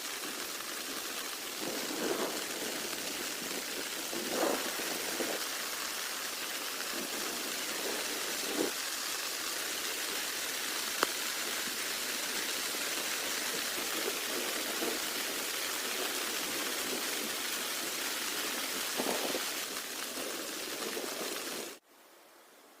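Steady rain falling, an even hiss with scattered heavier drops pattering through it and one sharp tick midway. The rain cuts off suddenly about a second before the end.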